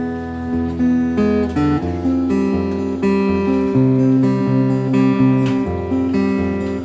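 Acoustic guitar strumming chords in an instrumental break between sung lines of a song, the chords changing every second or so.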